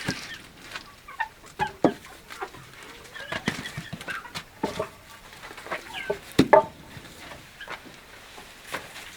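Chickens clucking in short calls, with irregular knocks and clatter throughout, two of them louder than the rest.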